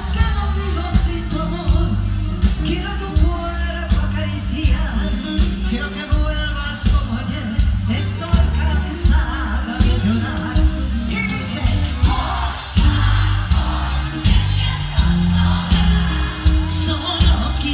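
Live pop band music with a steady drum beat and heavy bass, and singing over it.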